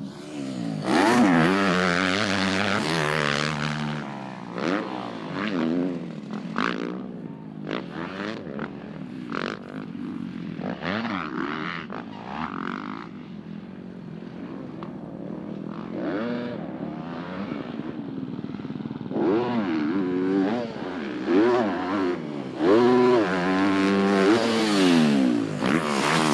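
Dirt bike engines revving up and down with gear changes as the bikes race around the track, loudest near the start and again in the last several seconds.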